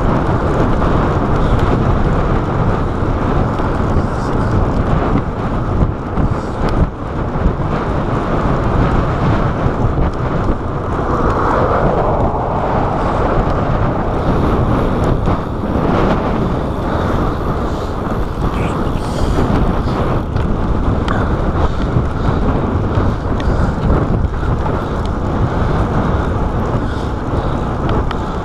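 Steady rumble of wind buffeting a chest-mounted GoPro's microphone while riding a bicycle at speed, briefly louder about twelve seconds in.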